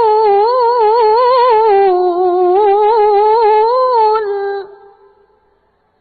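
A young qori's voice in melodic Quran recitation (tilawah), holding one long drawn-out vowel with quick ornamental turns of pitch. It breaks off about three-quarters of the way through, leaving a brief echo that dies away.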